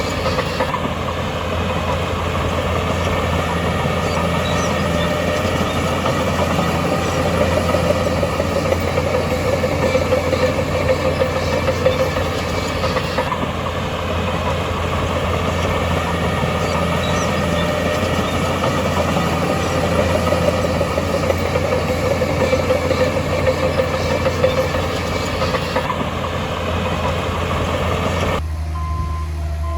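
Heavy diesel engine of an earthmoving machine running steadily under a low drone; the sound changes abruptly near the end.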